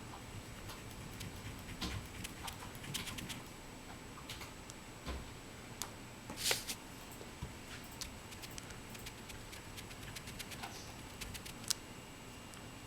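Oil pastel strokes scratching on paper, with sporadic light clicks. One louder scrape comes about six and a half seconds in, and a sharp click near the end.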